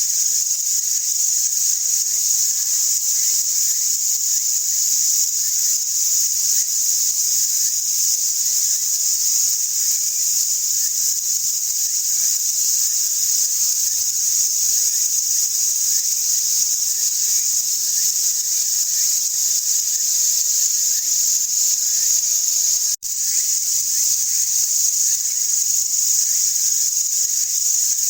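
Dense, unbroken chorus of summer insects, a steady high-pitched shrilling. It drops out abruptly for an instant about 23 seconds in, then resumes.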